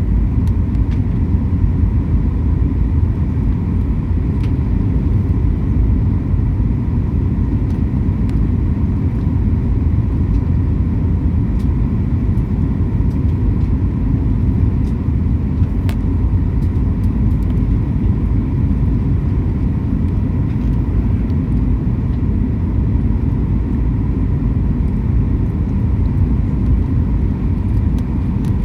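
Airliner cabin noise: a steady low rumble from the jet engines and airframe, with a faint, even whine above it.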